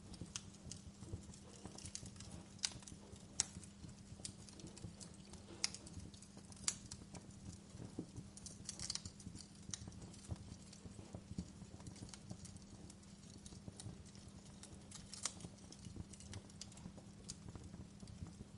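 Wood fire crackling in a fireplace: irregular sharp pops and snaps of burning logs over a low, steady hum.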